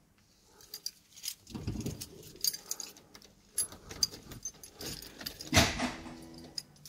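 Car keys jangling and clicking as the ignition key is handled and turned in a 1990 VW Golf GTI Mk2, with a brief steady hum near the end.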